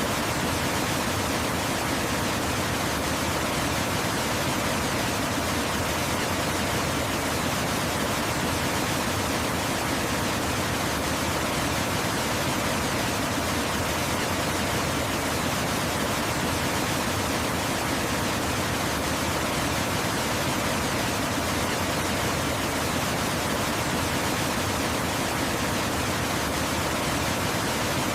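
Waterfall: a steady, unbroken rush of falling water spread evenly from low to high pitch, without any change.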